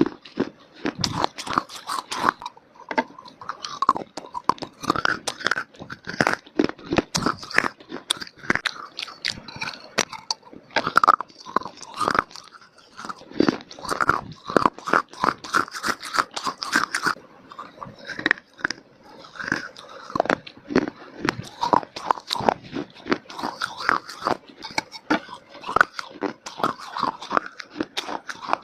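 A person biting and chewing hard, brittle baked clay (mitti) close to the microphone: a continuous run of sharp, irregular crunches and chewing.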